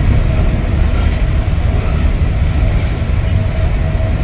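Steady rumble of a passenger train running at high speed, heard from inside the carriage, with a faint steady hum above it.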